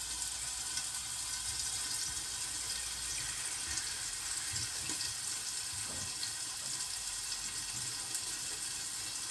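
Floured cubes of beef liver frying in hot oil in a pan under a glass lid: a steady sizzling hiss with a few faint pops.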